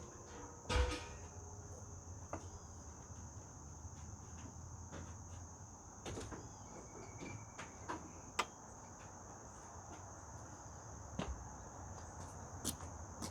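Steady high-pitched chorus of insects, with scattered metallic clanks and knocks of hand tools being handled. The loudest clank comes about a second in.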